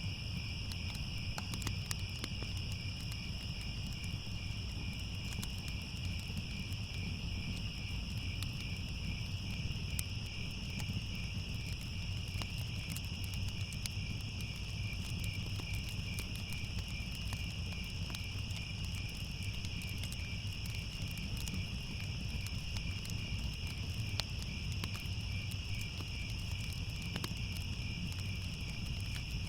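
Crickets chirping in a steady, fast-pulsing chorus, with the scattered crackle of a wood fire and a low, even rumble beneath.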